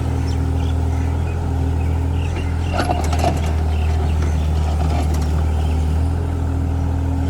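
Mini excavator's diesel engine running steadily at an even speed, with a short cluster of metallic clanks about three seconds in.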